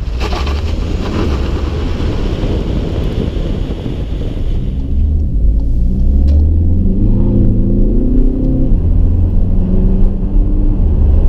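Road and wind rush for the first few seconds. Then the Skoda Superb's 2.0 TDI 190 hp four-cylinder turbodiesel is heard from inside the cabin, accelerating with its pitch rising. The pitch drops suddenly at a gear change around nine seconds in, then climbs again.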